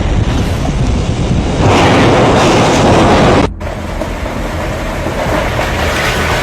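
Loud, steady rushing and rumbling noise that swells for a couple of seconds, cuts off abruptly about three and a half seconds in, then goes on more quietly.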